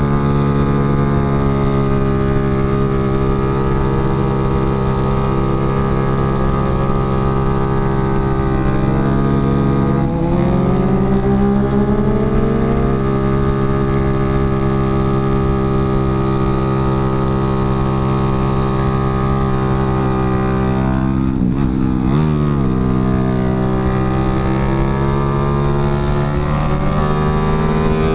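Yamaha Jupiter Z underbone motorcycle's single-cylinder four-stroke engine running steadily under way, heard from on board. Its note rises about ten seconds in, then dips briefly and climbs back a little after twenty seconds.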